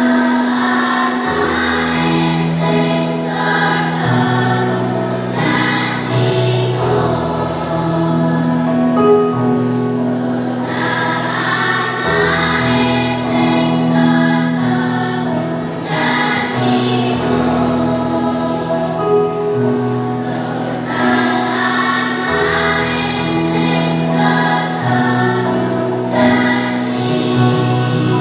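Primary-school children's choir singing in harmony over an instrumental accompaniment of held low chords that change every couple of seconds.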